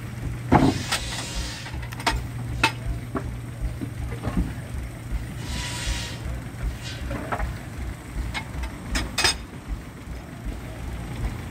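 Steam traction engine running, with a steady low hum and a fast low beat, two bursts of hissing steam and scattered metallic knocks.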